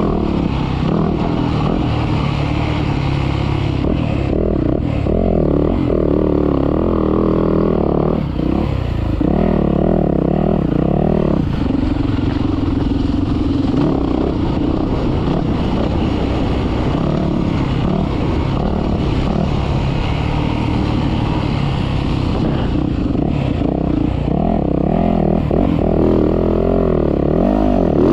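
Motocross dirt bike engine being ridden, its revs rising and falling continuously with the throttle and gear changes.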